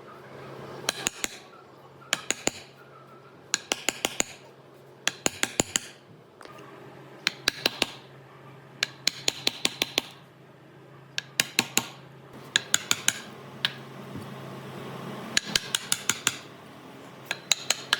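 Sharp metallic taps in quick clusters of three to six, about one cluster every second and a half, over a steady low hum.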